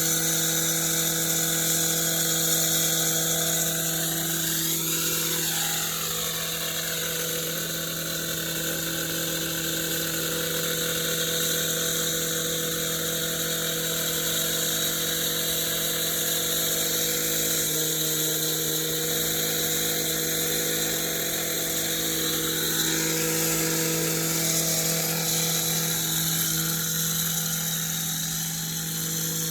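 Steady mechanical whine of a running motorized machine, constant in pitch over a high hiss, with a brief falling-then-rising sweep about five seconds in.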